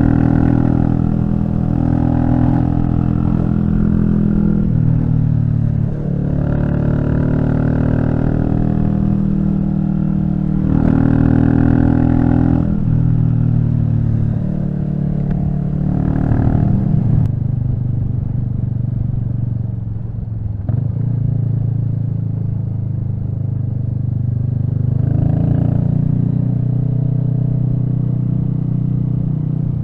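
Royal Enfield Meteor 350's single-cylinder engine running while riding, its note rising and falling with throttle and gear changes.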